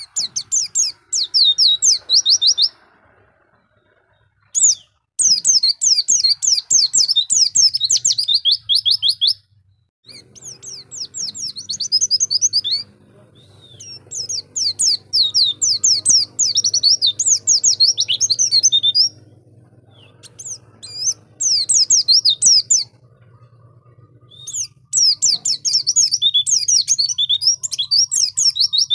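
White-eye (pleci) singing: fast, high-pitched chirping phrases a few seconds long, separated by short pauses. A faint low hum sits underneath from about a third of the way in.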